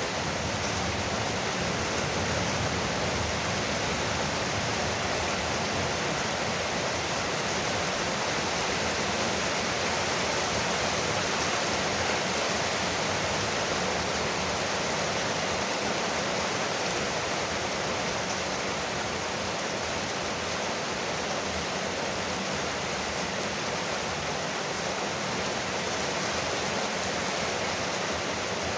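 Rain falling steadily on a veranda roof: an even, dense hiss with no thunder or separate drops standing out.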